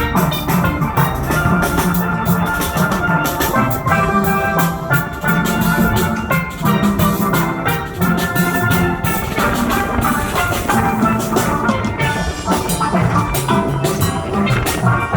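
A band playing upbeat music: melodic pitched percussion over drums with a steady beat.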